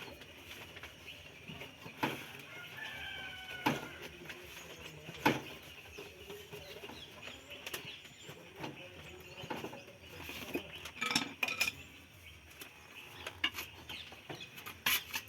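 Short pitched bird calls, like fowl clucking, with scattered sharp clicks and light knocks of small metal objects.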